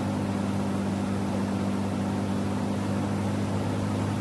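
Vintage Volkswagen engine running steadily at cruising speed, heard from inside the cabin with road and wind noise.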